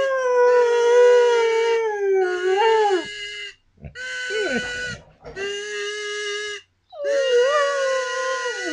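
A dog howling along to a kazoo. The kazoo plays held buzzy notes in short phrases with brief gaps, and the dog's howl wavers and slides in pitch over them.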